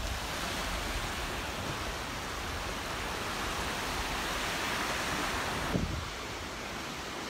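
Surf washing up the beach: a steady hiss of breaking waves that eases about six seconds in, with low wind rumble on the microphone underneath.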